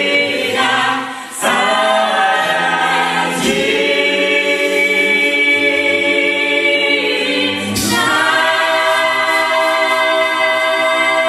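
A cappella vocal group singing unaccompanied in close harmony with long sustained chords. The singing breaks briefly about a second in, and a last long chord starts about two-thirds of the way through: the closing chords of the song.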